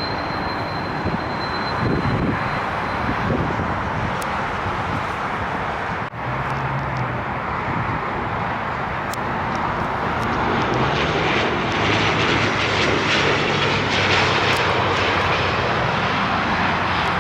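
Jet airliner on landing approach, its engine noise growing louder about halfway through as it comes closer, over steady wind noise. The sound briefly drops out about six seconds in.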